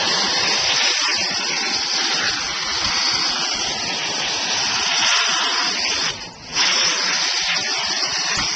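Car wash vacuum hose sucking air while cleaning out a car's interior: a steady loud rushing hiss, cut off briefly about six seconds in.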